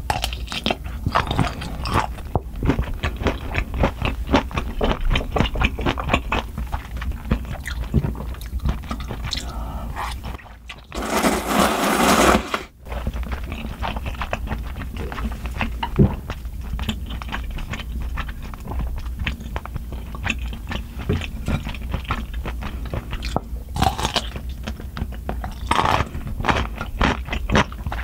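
Close-miked mouth sounds of biting and chewing a kielbasa sausage: dense, snappy crunches and wet chewing clicks from the firm casing. About halfway through, a loud rushing noise lasts a second or so.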